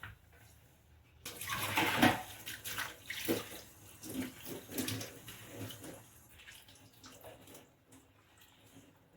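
Water from the sink tap running and splashing as dishes are rinsed by hand, starting about a second in, loudest just after it starts, then going on unevenly and tapering off near the end.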